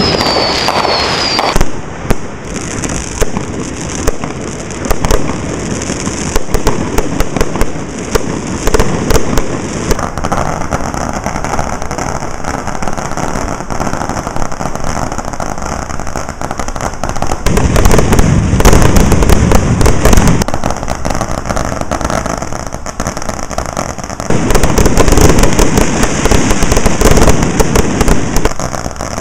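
Consumer fireworks going off without a break. A short whistle comes in the first second, followed by continual crackling and popping of firecrackers, fountains and aerial shells. Dense runs of rapid bangs are loudest about two-thirds of the way through and again near the end.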